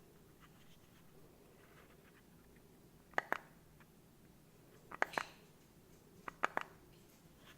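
Three sharp double clicks about one and a half to two seconds apart, over a faint steady hum.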